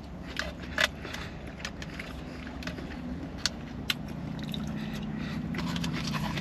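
Scattered small clicks and scrapes of eating: chewing and utensil clicks. Under them runs a low steady vehicle engine hum that grows louder from about four seconds in.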